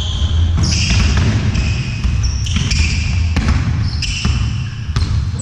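Indoor court game: many short, high shoe squeaks on a sports-hall floor, with a ball bouncing and hall echo.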